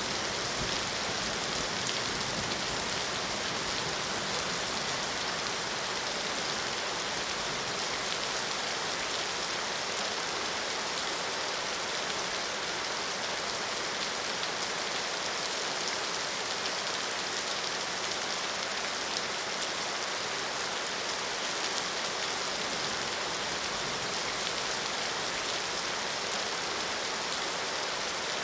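Steady rain falling: an even hiss with many small drop impacts ticking through it, unchanging throughout.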